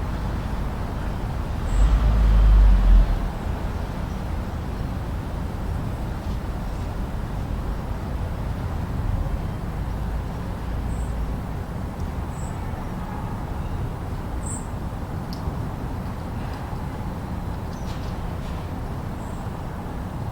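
Steady low rumbling noise with a hiss above it, swelling into a louder low rumble about two seconds in, with a few faint high chirps scattered through.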